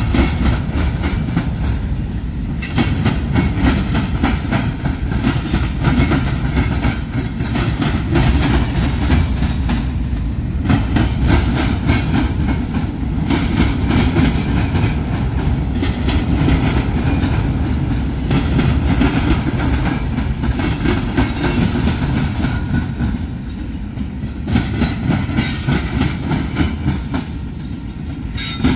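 Train cars rolling past close by: a heavy low rumble with a rapid, continuous clatter of wheels clicking over the rail joints.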